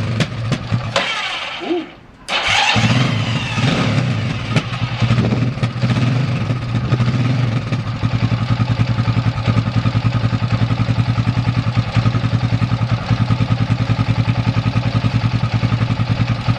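Gilera Saturno 500 single-cylinder four-stroke engine running and being blipped. The sound drops out briefly about two seconds in, then comes back, and from about halfway it settles into a steady, even idle thump.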